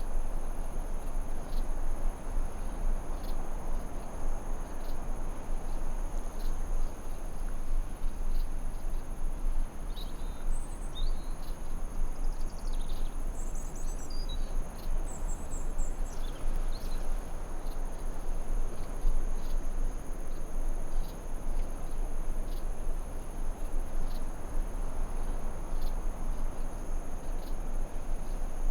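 Forest ambience: a steady high-pitched insect drone over a constant low rushing noise, with a few faint bird chirps between about ten and seventeen seconds in.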